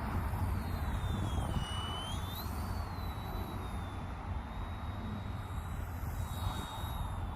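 Electric motor and rotor of an Eachine E110 mini RC helicopter in flight, a thin high whine that rises and falls in pitch as the throttle changes. Under it runs a steady low rumble.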